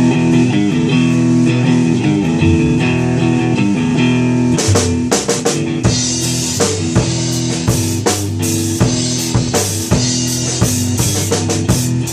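Rock band playing an instrumental introduction: electric guitar and bass chords, with the drum kit coming in about four and a half seconds in.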